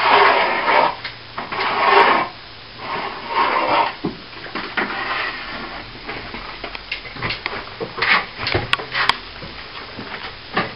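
Rubbing strokes of a hand tool on a repaired plaster wall: about four long strokes in the first half, then lighter knocks and clicks.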